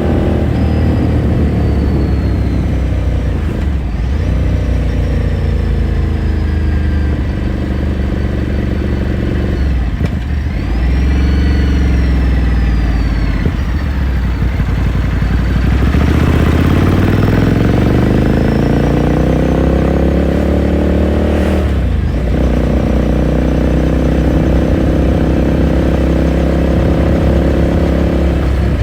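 Ducati Scrambler Sixty2's air-cooled 399 cc L-twin engine and exhaust under way, revs falling and rising through several gear changes. In the middle it makes one long climb in pitch under acceleration, broken by an upshift, then holds a steady cruise.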